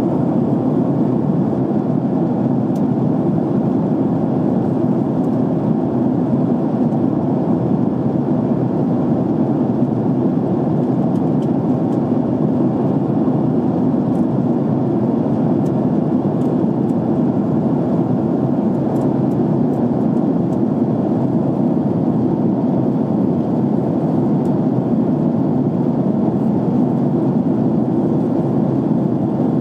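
Steady cabin noise of a jet airliner in flight: the even, unchanging rush of engines and airflow heard from inside the cabin.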